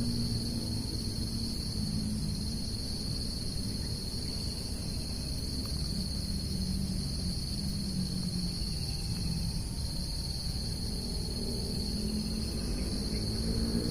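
Insects chirring in a steady, unbroken high drone, over a low rumble.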